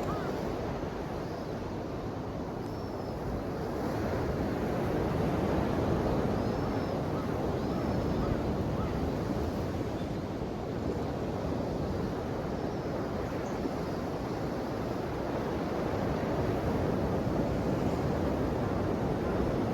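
Ocean surf: waves breaking and washing on the shore in a continuous rush, slowly swelling and easing in loudness.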